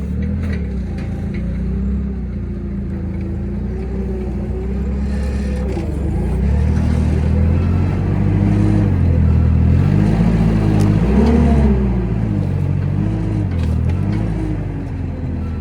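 An engine running with its speed rising and falling repeatedly, revving highest about two-thirds of the way through.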